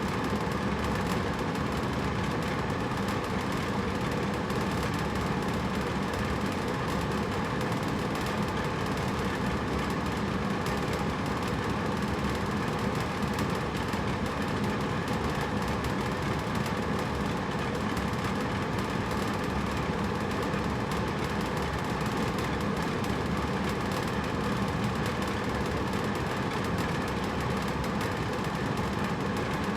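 Hotel room air conditioner running steadily: a constant whoosh of air with a low motor hum and a faint tone from the fan and compressor.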